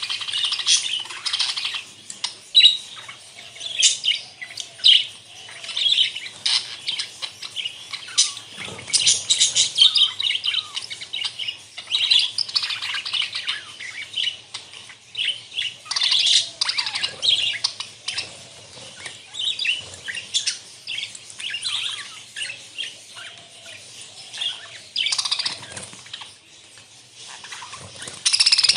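A flock of budgerigars chattering and chirping continuously, many birds calling over one another in quick, overlapping warbles and chirps.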